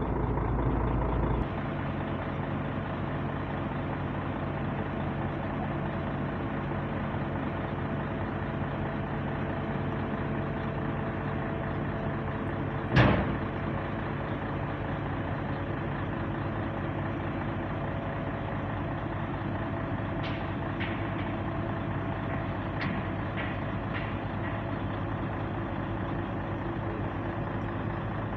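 Heavy diesel engine running steadily, its note dropping a little about a second and a half in. About halfway through there is a single loud metallic clank, and a few light clicks come later.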